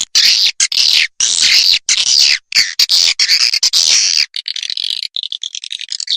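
Recorded swiftlet calls played as a lure track to draw swiftlets into a nesting house: loud, high-pitched chirping and twittering in quick bursts, turning about four seconds in to a fast clicking rattle.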